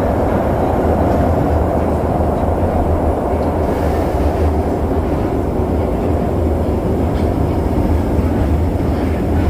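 Keisei commuter train running at steady speed, heard from inside the passenger car: a continuous low rumble and running noise.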